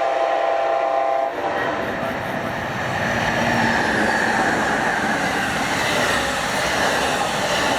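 Amtrak Auto Train locomotive's horn sounding a chord that cuts off about a second in, then the steady rush and rumble of the train passing close by at speed.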